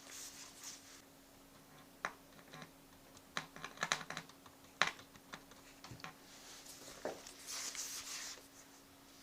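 Scattered small clicks and taps, thickest in the middle, with brief scraping rustles at the start and near the end, over a faint steady hum: hands and tools handling parts during bench repair work.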